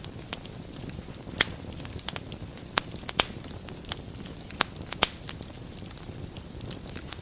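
Wood fire burning in a fireplace: a steady low rumble of flames with irregular sharp crackles and pops, the loudest clustering in the middle of the stretch.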